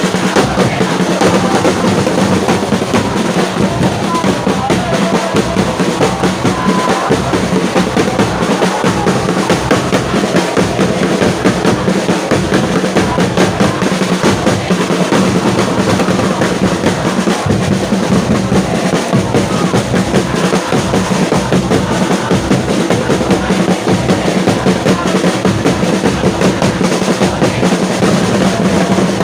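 Football supporters' drums beating continuously in a stadium, with the crowd chanting and singing along.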